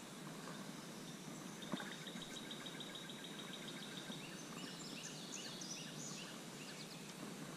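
A small bird singing: a fast run of high ticking notes for about two seconds, then a jumble of higher, shorter chirping notes, over a steady outdoor hiss. A single sharp click sounds a little under two seconds in.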